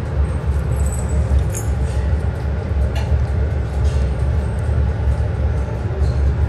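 A steady low rumble from background machinery, with a few faint clicks and taps.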